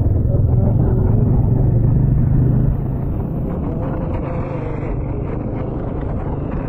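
Motorcycle engine running steadily under way, heard from the riding bike itself as a low rumble. It drops in level about three seconds in.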